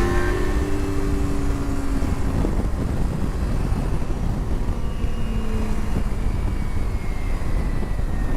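Motorcycle riding with wind rushing over a helmet-mounted microphone in a steady low rumble. The engine's note is heard for the first two seconds or so, then mostly gives way to the wind.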